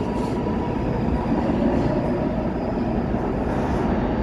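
Subway train running along the track with a steady, loud rumble.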